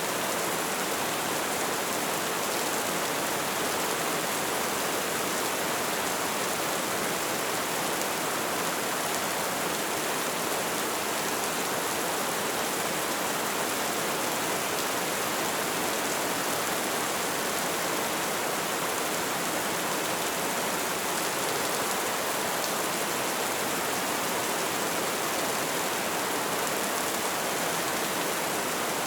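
Light rain falling steadily: an even hiss of many small drops with no distinct individual hits.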